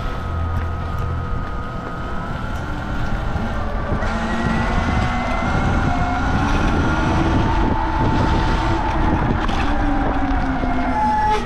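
Sur-Ron X electric dirt bike's motor whining under way, several thin tones rising in pitch as it picks up speed from about four seconds in, over a steady rush of wind and wet-road tyre noise.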